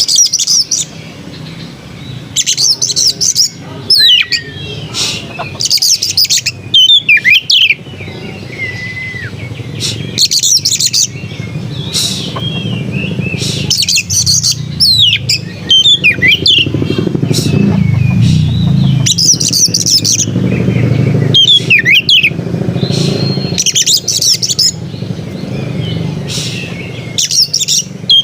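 Oriental magpie-robin (kacer) singing: short, varied whistled and chattering phrases with quick pitch slides, repeated every second or two. A steady low rumble runs underneath and swells around the middle.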